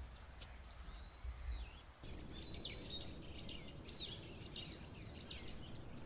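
Faint small birds chirping: one longer whistled note about a second in, then a quick run of short rising-and-falling chirps, over a low steady background.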